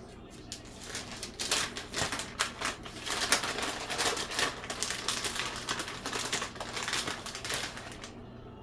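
Rapid crinkling and clicking of plastic packaging being handled, denser through the middle and fading near the end, over a steady low hum.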